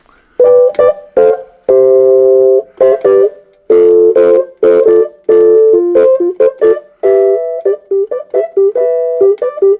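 A Hohner electric reed keyboard, just tuned, played as a short phrase of single notes and held chords.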